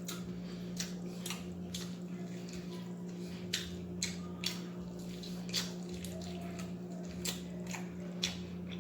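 Close-up chewing and wet mouth clicks of someone eating chicken and fries: an irregular string of short smacks, several a second, over a steady low hum.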